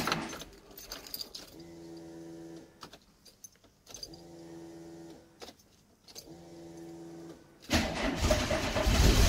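Electric fuel pump of a 1990 VW Golf MK2 GTI humming three times, about a second each with short pauses between, as the ignition is switched on to prime it. Near the end the engine is cranked, much louder, and struggles: it is low on petrol.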